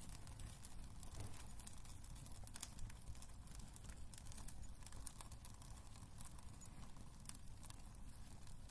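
Wood fire crackling in a fireplace: irregular small pops and snaps over a low rumble of the flames.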